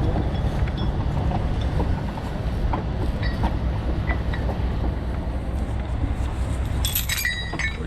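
Heavy diesel truck engine running steadily with a low rumble, with a brief burst of metallic clinking near the end.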